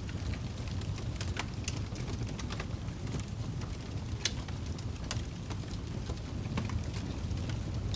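Wood fire crackling in a fireplace: a steady low rumble of burning with scattered sharp pops and snaps, the loudest a little past halfway.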